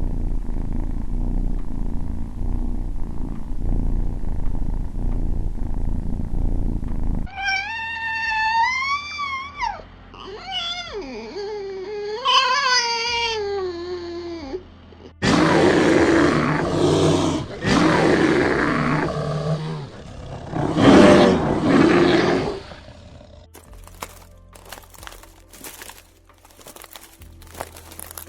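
A low rumbling growl, then a cat meowing in several long rising and falling calls, then a big cat such as a lion or tiger roaring loudly in long rough calls, followed by a run of sharp crackling clicks near the end.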